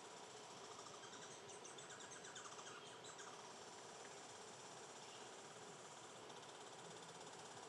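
Faint outdoor ambience with a steady insect hum, and a short run of rapid bird notes from about one and a half to three seconds in.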